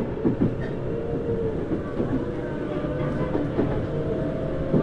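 Tokyu Series 9000 electric train heard from inside a motor car while running: steady wheel and undercarriage rumble with a held motor tone from its Hitachi GTO-VVVF traction system, edging slightly higher in pitch. A few knocks come as the wheels cross rail joints, a pair about half a second in.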